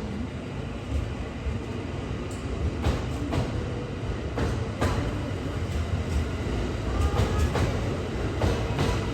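Train Suite Shiki-shima (E001 series) train rolling slowly past, a steady low rumble broken by irregular clicks of its wheels over rail joints.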